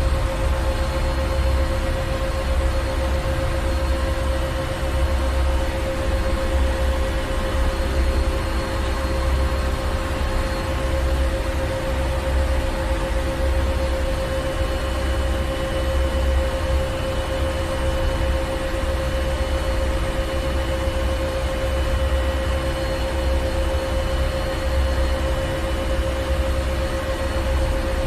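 Ship's engine room: heavy machinery running steadily, with a deep pulsing rumble under a steady hum and a hiss.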